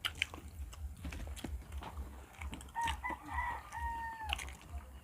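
A rooster crows once about three seconds in: a call held for about a second and a half that drops in pitch at the end. Soft clicks and crunches of eating are heard around it over a low hum.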